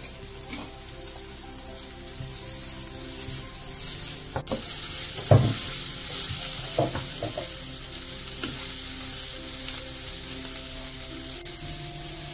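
Sliced red onions with ginger, garlic and green chilli paste sizzling in hot oil in a nonstick frying pan, stirred with a wooden spatula. There are a few knocks and scrapes of the spatula around the middle, and the sizzle grows louder from about four seconds in.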